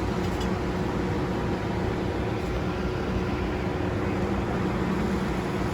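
Steady machine noise: a constant low hum under an even rushing hiss, with no change in level.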